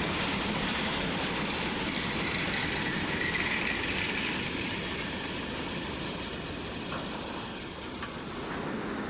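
Container wagons of a long freight train rolling past, wheels clattering on the rails. A high wheel squeal is heard over the first half and fades away about four seconds in.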